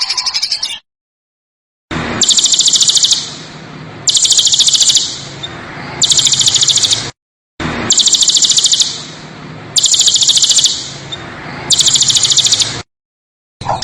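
A songbird's harsh, very rapid rattling trill, given in six bursts of about a second each, roughly every two seconds. The recording drops to dead silence three times, near the start, midway and near the end, where the clips are joined.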